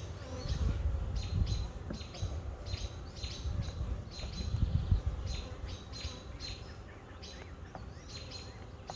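A small bird chirping repeatedly: short high chirps in quick groups of two or three. A low rumble runs under the first half and then fades.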